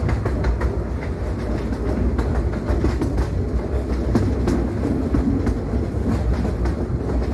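Passenger train running along its rails, heard from on board: a steady low rumble with irregular clicks and clatter from the wheels on the track.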